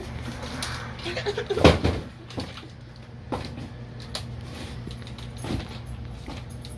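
A few knocks and bangs, like a door or cupboard being handled, the loudest about a second and a half in, over a steady low hum.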